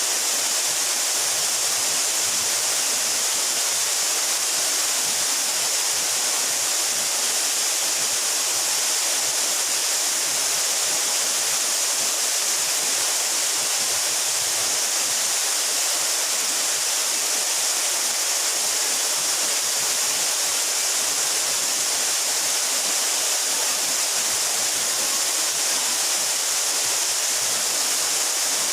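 Steady, continuous rush of a waterfall about 12 metres high, with a hissing character and no let-up.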